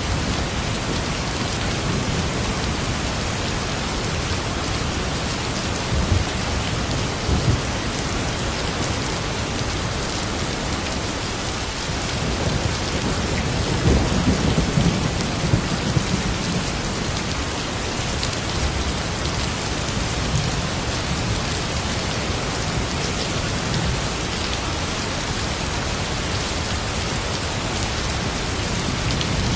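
Steady heavy rain falling. Low rumbles of thunder swell up twice, briefly at about six to seven seconds in and more strongly around fourteen to sixteen seconds in.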